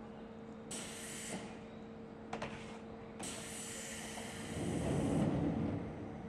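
Seibu 3000 series electric train standing at the platform, humming steadily, with three short hisses of released air. A louder low rumble swells about five seconds in.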